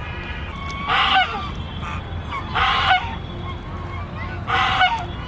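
Domestic duck quacking: three loud, harsh quacks about two seconds apart. Faint high peeps, typical of ducklings, sound between them.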